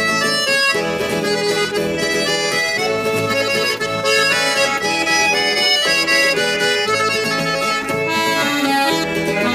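Instrumental music led by an accordion playing a melody.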